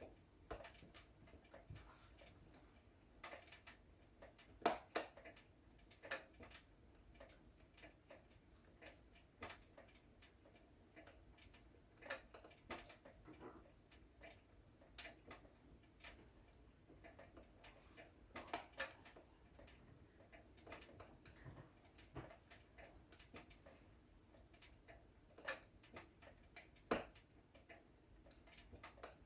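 Wood fire in a fireplace crackling, with irregular sharp snaps and pops over a faint low hiss; a louder pop about five seconds in and another near the end.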